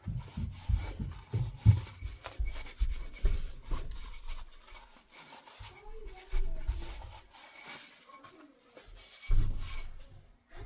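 Microfiber cloth rubbing and wiping a ceiling fan's switch housing, in irregular strokes with low bumps of handling, the loudest about a second and a half in and near the end.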